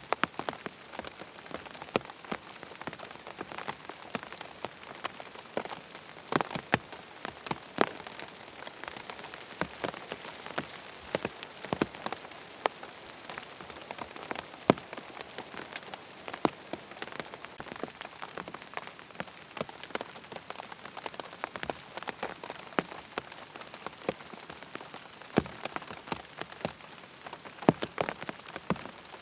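Steady rain with many sharp, irregular drop impacts ticking on a hard surface.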